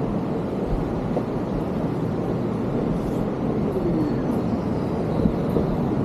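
Steady low roar of rushing water, a continuous even rush.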